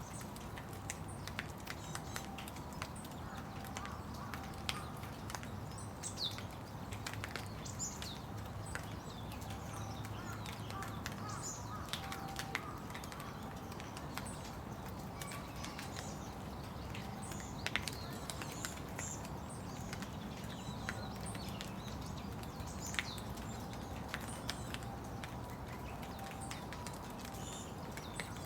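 Steady rain with scattered drops ticking close by, and small birds giving short high chirps now and then.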